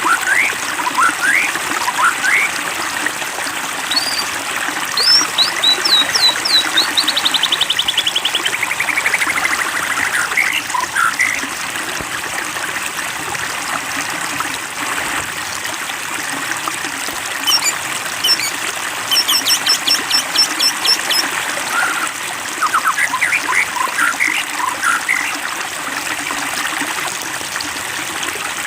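Water trickling steadily, with a small songbird singing over it in spells of quick rising whistles and fast trills: one spell through roughly the first ten seconds and more from the middle to near the end.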